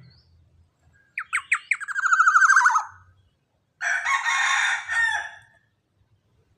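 Young black-naped oriole calling: a few quick sharp notes running into a fast trill that drops slightly in pitch, then a harsh, raspy call lasting about a second and a half.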